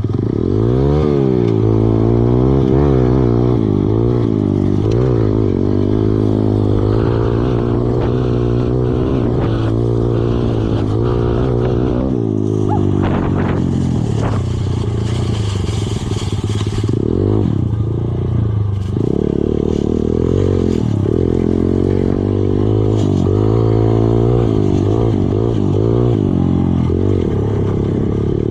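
Kawasaki KLX110 dirt bike's small single-cylinder four-stroke engine being ridden, its pitch rising and falling over and over with the throttle. A rushing noise comes in for a few seconds midway.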